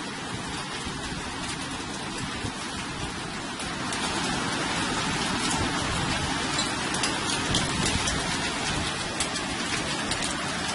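Heavy rain falling steadily, a dense hiss with scattered ticks of drops, growing a little louder about four seconds in.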